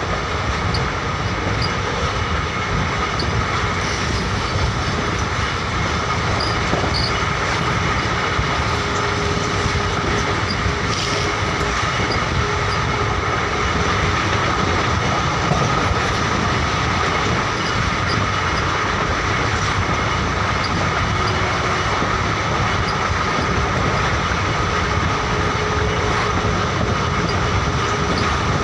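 Indian Railways express train running along the track: a steady rumble and hiss of the coach's wheels on the rails, with a thin, steady high whine over it.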